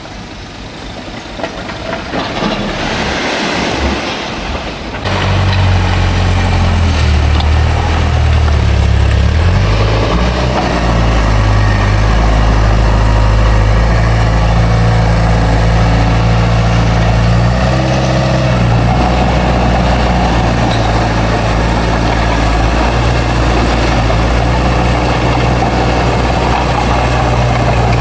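Heavy diesel engine of earthmoving machinery running. The sound is lower and rougher for the first few seconds, then jumps abruptly to a loud, steady, deep drone about five seconds in, with small shifts in engine pitch later on.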